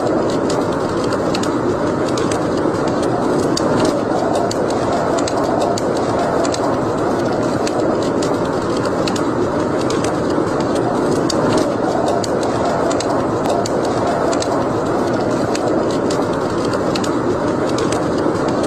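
Wood fire burning in a fireplace: a steady low rush with frequent small, sharp crackles scattered through it.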